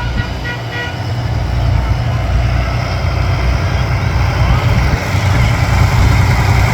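Tractors and other vehicles driving past with a steady low engine rumble that grows louder from about three seconds in, and a few short horn toots under a second in.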